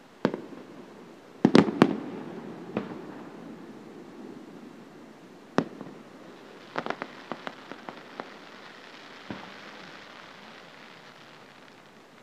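Aerial firework shells bursting: a sharp bang just after the start, a loud cluster of bangs about a second and a half in that leave a lingering rumble, then single bangs, with a run of quick small crackling pops about seven seconds in.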